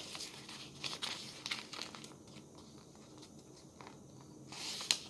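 A sheet of printer paper being folded and creased by hand: short crinkles and rustles in the first couple of seconds, and a louder rustle of paper near the end.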